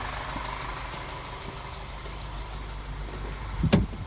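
VW 2.0 TSI petrol engine idling steadily; it has an air leak at a blown rear main seal. A faint hiss fades out in the first second, and a sharp thump comes near the end.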